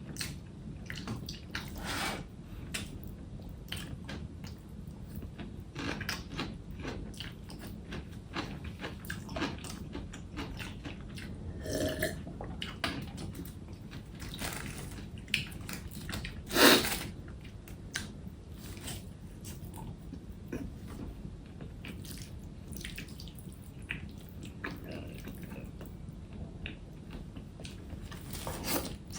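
Close-up eating sounds: wet chewing and biting of food, with many small clicks throughout and one sharp, louder click about two-thirds of the way in. A faint low hum runs underneath.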